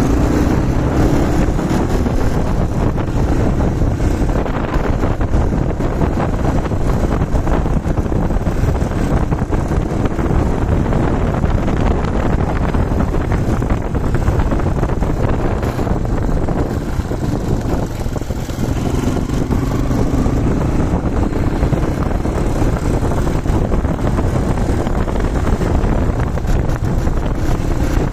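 Yamaha TW200's single-cylinder four-stroke engine running while riding, its pitch rising in the first couple of seconds and again about two-thirds of the way through. Heavy wind noise buffets the microphone throughout.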